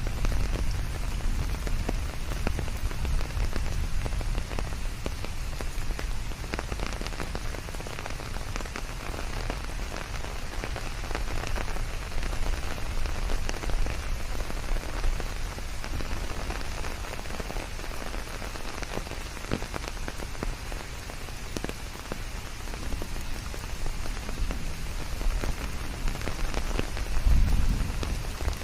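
Steady rain falling, many single drops ticking through an even hiss. A low rumble swells briefly near the end.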